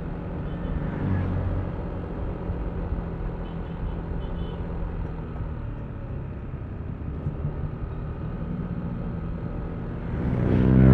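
Yamaha Aerox V3 scooter's single-cylinder engine running steadily on the move, with road and wind noise. Near the end a louder engine sound swells and falls in pitch.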